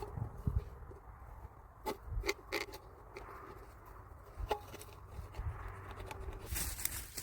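Scattered light knocks and scrapes, a few at a time, over a steady low rumble.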